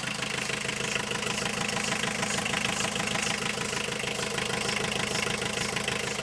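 Car engine idling steadily with a fast, even pulse and a steady hiss on top, which is taken for something blowing.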